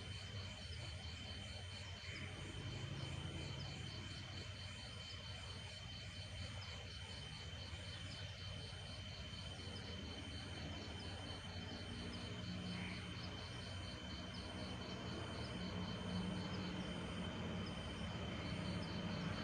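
Night insects: crickets chirping in an even, repeating rhythm alongside a steady high-pitched trill, over a low background rumble.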